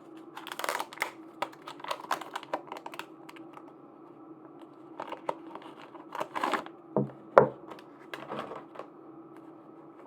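Plastic packaging crinkling and tearing in irregular bursts as blind-packed acrylic charms are unwrapped by hand, with two sharp knocks a little past seven seconds in.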